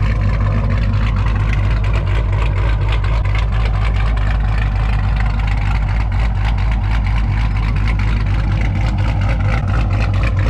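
Cammed Jeep Grand Cherokee SRT8's 392 Hemi V8 idling loudly through its exhaust, with a steady, rapid choppy pulsing and no revs.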